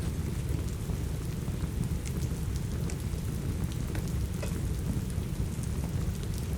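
Steady rain over a deep, constant low rumble, with scattered small sharp crackles and pops from a wood fire in a fireplace.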